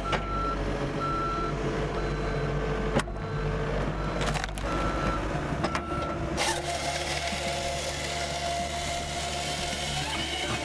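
Backup alarm of a Cat 906H wheel loader beeping steadily, about once a second, over its running engine. About six seconds in the beeping stops and a louder steady rushing noise with a high whine takes over.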